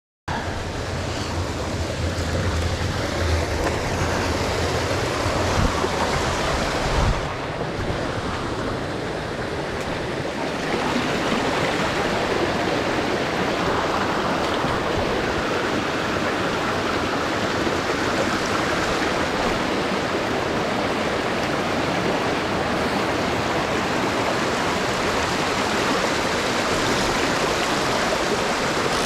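Small mountain creek rushing steadily over rocks. A low rumble sits under the water for the first seven seconds and ends in a short bump; the rush is a little louder from about eleven seconds in.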